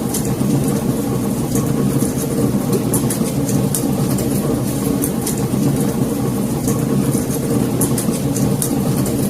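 Wood fire burning in a fireplace: a steady low roar of the flames with frequent sharp crackles and pops of burning logs.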